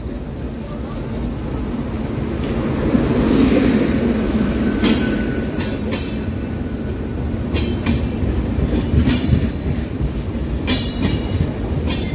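Express passenger train (15010 Gorakhpur Express) pulling into a station. Its rumble builds as the locomotive nears, then the coaches roll past with irregular clacks of wheels over rail joints, and a faint brief squeal about five seconds in.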